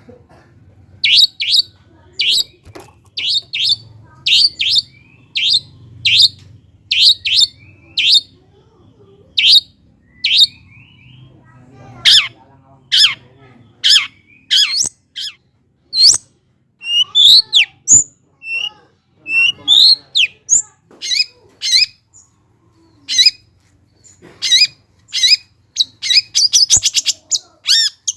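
Long-tailed shrike (cendet) calling and singing: a run of short, sharp, loud notes about one or two a second, then more varied gliding phrases, breaking into a fast rapid series near the end.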